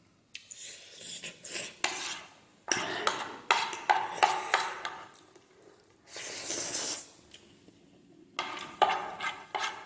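Eating instant noodles from a bowl: utensils clicking and scraping against the bowl in quick irregular strokes, with one longer noisy stretch about six seconds in.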